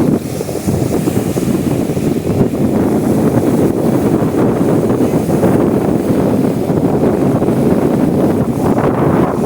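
Strong wind buffeting the microphone over the steady rush of sea waves.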